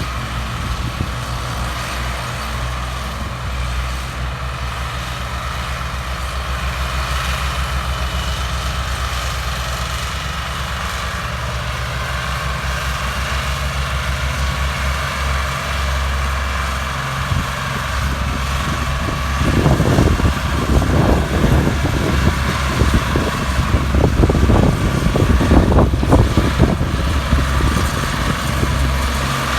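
Ford 3610 and 4610 three-cylinder diesel tractor engines running steadily while pulling a heavily loaded trolley. About twenty seconds in, the sound gets louder with an uneven pulsing for several seconds.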